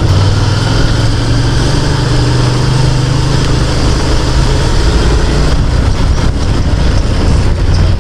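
Motorcycle engine running steadily while riding on the road, its note easing slightly lower about halfway, over a steady rush of wind and road noise.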